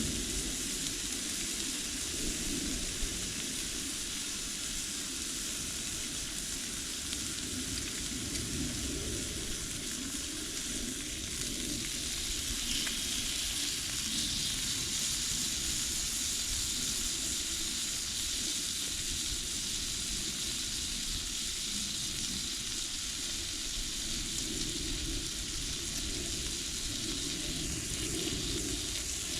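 Meat sizzling steadily as it cooks, with a few small crackles.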